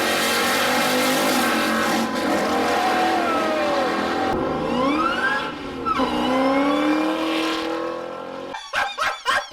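Car engine revving, its pitch climbing and falling several times with a sharp rise about halfway through. The sound breaks off in a few short gaps near the end.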